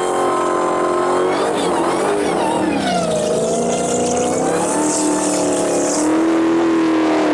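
A car engine held at high revs during a burnout, its pitch wavering up and down as the throttle is worked.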